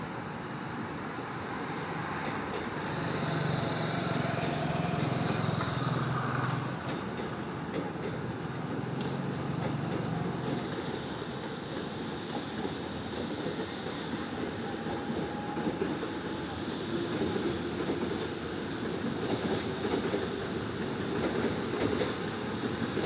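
Steady urban rumble of passing vehicles. A low hum swells and fades in the first half, and faint regular clicks come in the second half.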